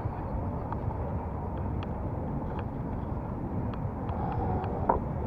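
Steady low rumble of wind and road noise from riding an electric bicycle, with scattered small clicks and rattles. Two short, louder sounds come near the end.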